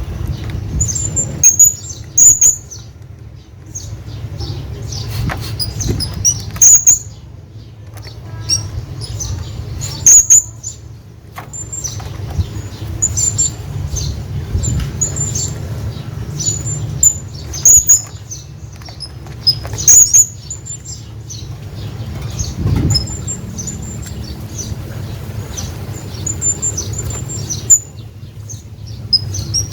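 Hanging parrot calling: short, shrill, very high-pitched squeaks, repeated at irregular intervals and often in quick pairs, over a steady low hum.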